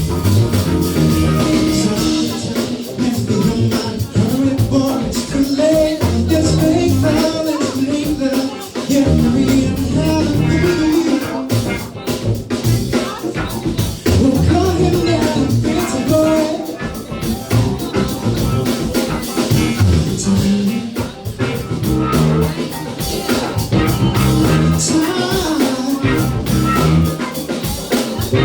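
Band music: a rock-soul number with drum kit, bass and electric guitar playing steadily throughout.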